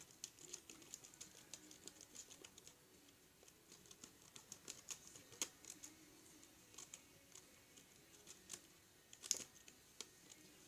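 Scissors making small snips into the folded paper of a paper airplane's wing, a faint run of irregular light clicks and snips with a few sharper ones.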